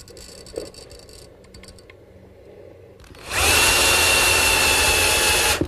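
A few faint handling clicks, then about three seconds in a power drill runs steadily for a little over two seconds, driving a screw to fix a wooden block in place.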